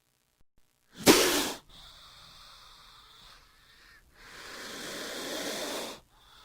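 King cobra hissing: a loud, short, sharp hiss about a second in, then a longer hiss that builds for nearly two seconds and stops abruptly.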